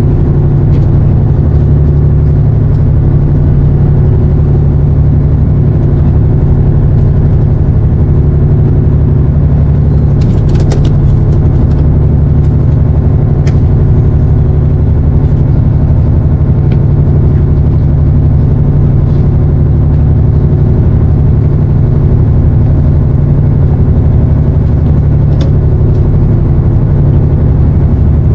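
An engine aboard a fishing boat running steadily: a loud low drone with a slow, regular beat in its lowest tones. A few faint clicks come through, about ten and thirteen seconds in.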